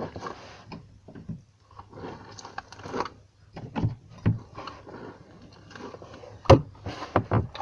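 Hands handling and squeezing a squishy stress-ball toy: soft, irregular rustling and scraping with scattered small clicks, and one sharper click about six and a half seconds in.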